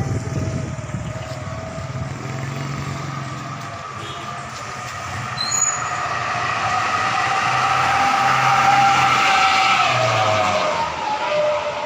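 A motor vehicle drives past: engine running with a whine that grows louder and then drops in pitch as it goes by.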